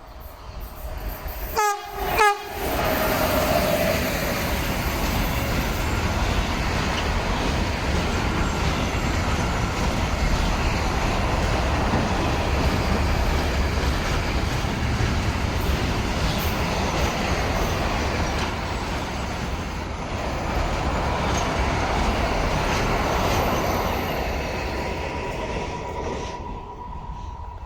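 A train passing close by. It sounds its horn briefly about two seconds in, then the wheels rumble and clatter on the rails for over twenty seconds, fading out near the end.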